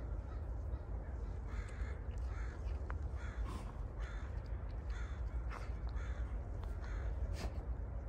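A bird calling over and over, about nine short calls roughly a second apart, over a steady low rumble.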